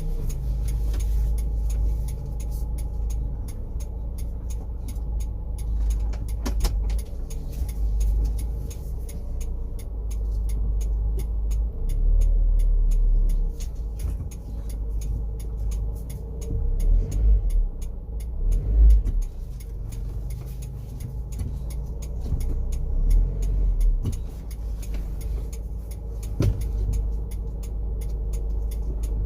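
First-generation Honda CR-V running, heard as a steady low rumble with a thin continuous whine above it and a few louder low swells: the hum and whine that incorrect distributor timing gives this engine.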